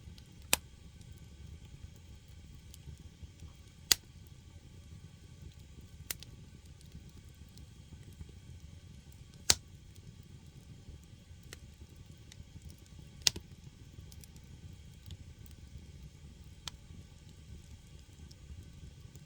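Firewood burning in a traditional Korean agungi firebox: a steady low rush of the fire, with sharp pops and crackles from the logs every few seconds, four of them loud.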